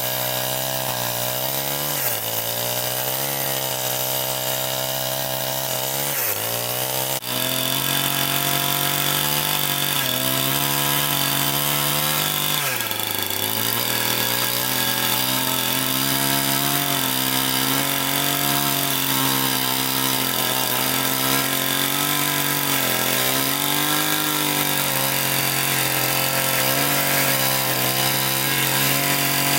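Chainsaw cutting wood, its engine pitch dipping sharply a few times as the chain bites, then running on fairly steadily with small dips under load.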